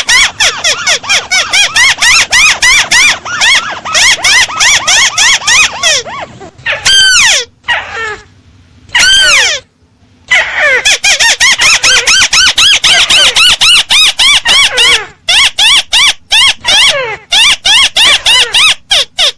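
Crake lure call played loud: a fast run of high, arched notes, about six or seven a second. Midway it breaks off for two long falling notes with short pauses, then the rapid run starts again.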